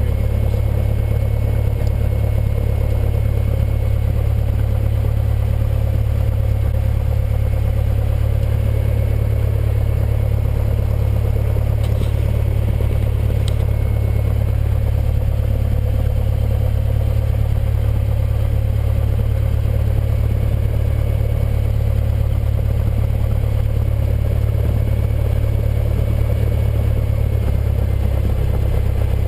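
Cessna 172N's four-cylinder Lycoming O-320 piston engine and propeller running steadily after start, a constant low drone throughout.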